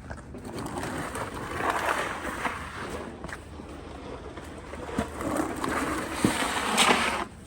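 Snow shovels scraping and pushing snow across pavement in rough strokes, loudest around two seconds in and again near the end, with a couple of sharp knocks of the blade.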